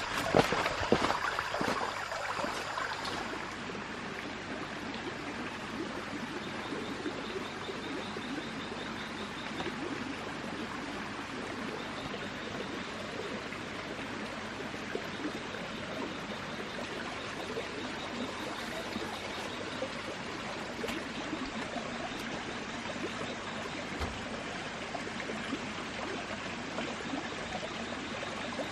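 Water running steadily in a stream, with a few sharp splashes or knocks in the first second or two. A faint, fast, high ticking comes and goes in the middle.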